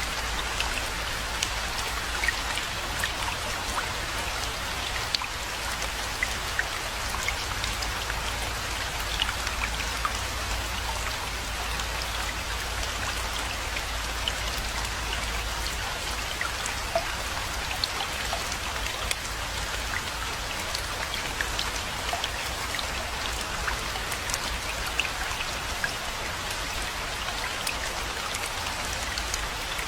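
Steady rainfall with many distinct drops striking a surface, over a steady low rumble.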